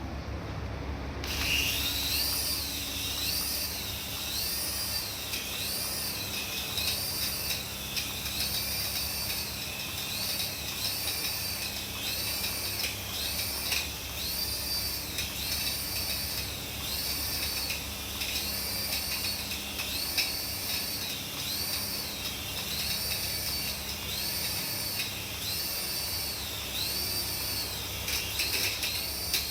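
Electronic toy sound effect: a high siren-like tone warbling up and down about once a second over a steady low hum.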